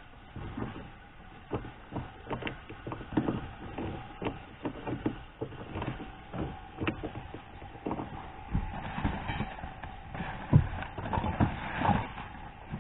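Hand tools working on car fasteners: irregular metallic clicks, taps and knocks as a socket wrench is fitted and turned on the interior trim bolts.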